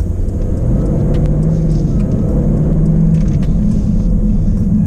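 Jaguar F-Type's 5.0-litre supercharged V8 running under way, its engine and exhaust note rising in pitch within the first second and then holding steady.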